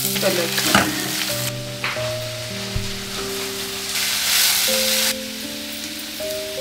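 Sliced vegetables sizzling in hot oil in a stainless steel kadhai while being stirred with a silicone spatula, with a few short knocks of the spatula against the pan. The sizzle eases about five seconds in. Background music with held notes plays throughout.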